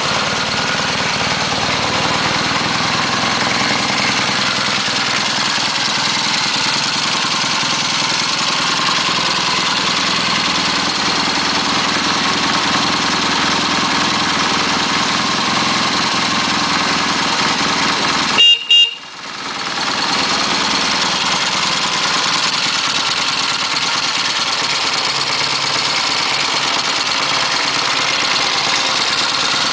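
1972 Triumph Bonneville T120V's 650 cc parallel-twin engine idling steadily after a kick start. About two-thirds of the way through there is a sharp click and the sound cuts out for about a second before returning.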